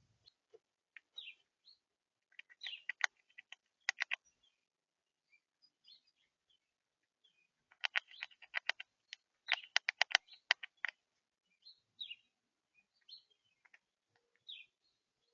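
Small birds chirping at a bird feeder, short high notes scattered throughout, with two runs of rapid sharp clicking, one a few seconds in and a longer one around the middle.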